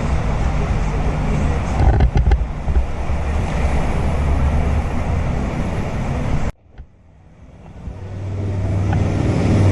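Wind buffeting and rolling rumble on an action camera's microphone, with a few knocks about two seconds in. It drops off abruptly about two-thirds of the way through, then builds back up.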